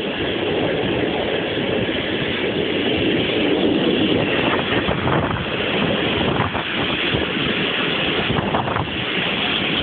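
Passenger train hauled by an EP07 electric locomotive running along the track: a steady rumble of wheels on rail mixed with wind noise, with a few sharp knocks in the second half.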